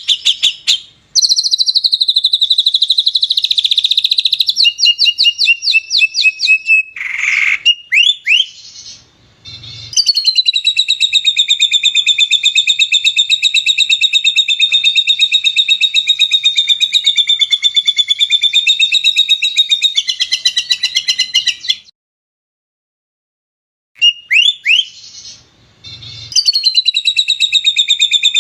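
Loud, rapid songbird trills and chirps from a spliced masteran track, recorded songs used to train caged songbirds: several short varied phrases, then a long, fast rattling trill of about twelve seconds that cuts off abruptly. After about two seconds of silence, short calls and the trill start again.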